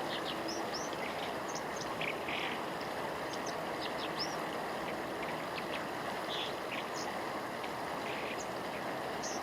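Brown dipper singing a run of short, high, scattered notes over the steady rush of a mountain stream.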